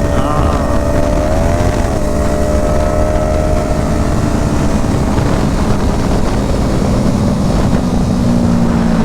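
Motorcycle engine running at a steady cruise under heavy wind rush on the microphone. The engine note rises briefly about a second and a half in, and shifts slightly near the end.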